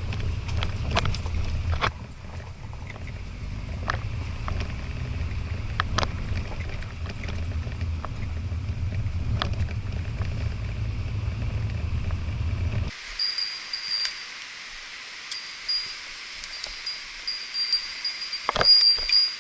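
A Toyota Hilux Surf RZN185's 2.7-litre four-cylinder engine and drivetrain rumble as it drives a rough forest track, with scattered knocks and rattles. About two-thirds of the way through, the sound cuts to a steady hiss with repeated high, thin chirps and one sharp thump near the end.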